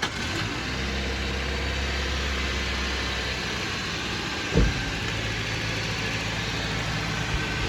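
Toyota Corolla XLi engine idling steadily just after being started, its note settling a little lower about three and a half seconds in. A single sharp knock sounds about four and a half seconds in.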